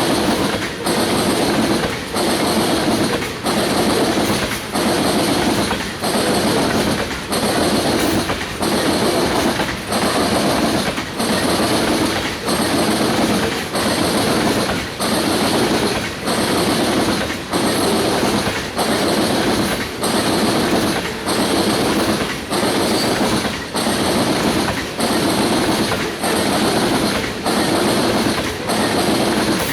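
A loaded oil train's tank cars rolling past, a steady rumble of wheels on rail with a regular clickety-clack beat about once a second as car after car goes by.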